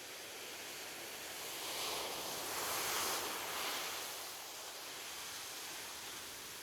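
Ocean waves washing onto the shore: a steady surf hiss that swells as one wave breaks and rushes in around the middle, then eases back.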